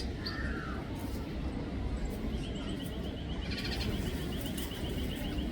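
Small birds calling over a steady low rumble: a few short chirps just after the start, then a fast, even trill of repeated ticking notes beginning a little past two seconds in, with a brief burst of higher notes partway through.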